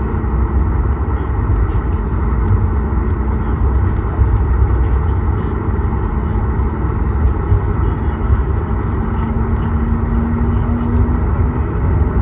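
Steady cabin noise inside a Boeing 737 MAX 8: its engines and the airflow make an even, loud rumble, with a faint steady hum underneath.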